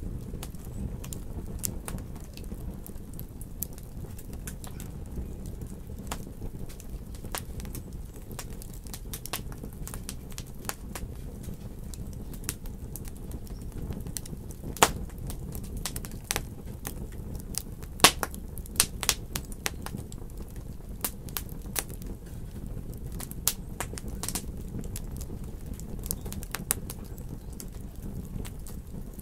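Wood fire in a fireplace crackling, with irregular sharp pops over a steady low rumble; a few louder pops come about halfway through.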